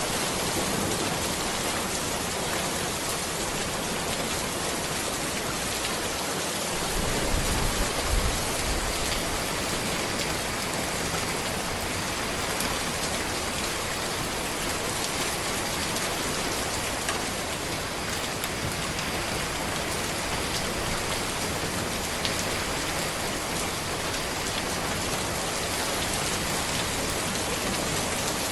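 Steady rain falling on a road and trees: a dense, even hiss of drops, with a brief low rumble about seven seconds in.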